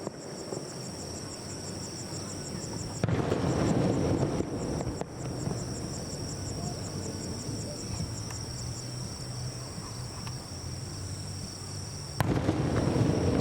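Aerial fireworks shells bursting: a sharp boom about three seconds in that rumbles on for a couple of seconds, and another near the end.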